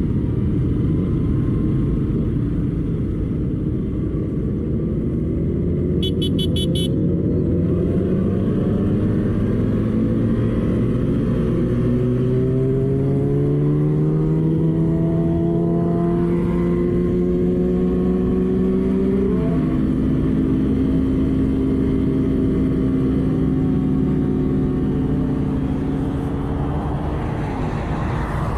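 Motorcycle riding along under a heavy low rumble of road and wind noise, its engine note rising slowly for about ten seconds, dropping sharply, then holding steady. A brief high beep sounds about six seconds in.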